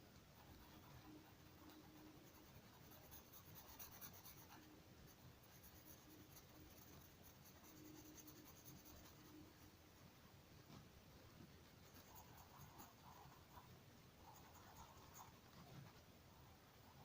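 A pen drawing on paper: faint, irregular scratching strokes.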